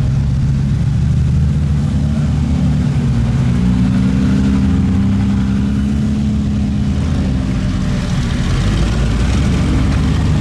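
Car engine running steadily; about three seconds in its pitch rises, holds for several seconds, then drops back near eight seconds, as the car speeds up and eases off.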